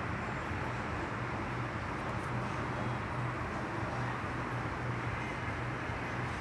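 A motor running steadily, with a low hum under an even hiss.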